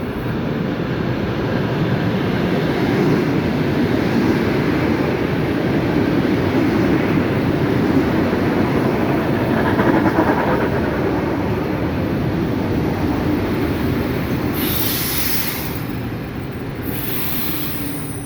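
ED4M electric multiple unit passing by, its wheels rumbling and clattering over the rails. The sound swells to its loudest about halfway through and then eases off. Two short bursts of hiss come near the end.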